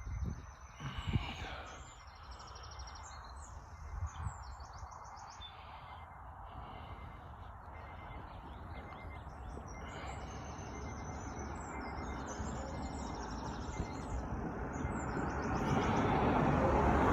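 A wild songbird singing, repeating short high trilled phrases every second or two, over low wind rumble on the microphone. A steady noise swells over the last few seconds.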